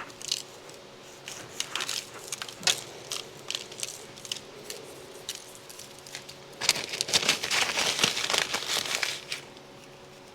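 Crinkling and crackling from something crinkly being handled: scattered crackles at first, then a dense, louder stretch of about three seconds in the second half.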